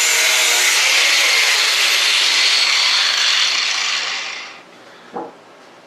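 Power tool running hard against the steel of a welding table, a loud steady hiss that winds down about four seconds in, followed by a single light knock.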